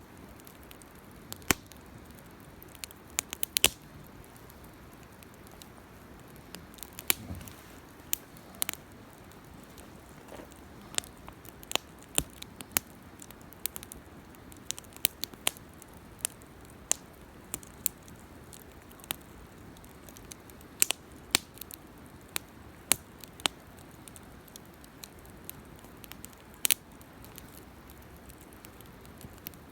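Wood campfire crackling: sharp, irregular pops and snaps, several clustered together at times, over a faint steady hiss of the burning fire.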